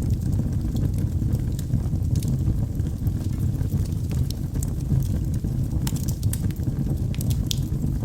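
Wood fire burning in a fireplace: a steady low rumble of flames with scattered sharp crackles and pops from the burning logs, several of them close together about six to seven seconds in.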